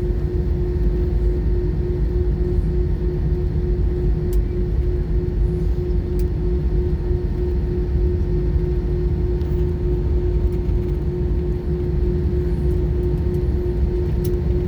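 Cabin noise of an Airbus A320 taxiing, its CFM56-5B engines at low thrust: a steady low rumble with a steady hum-like tone over it and no build-up of power.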